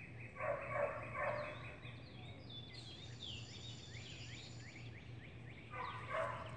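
A large bird's rapid rattling call, twice: once about half a second in and again near the end, with small birds chirping in between.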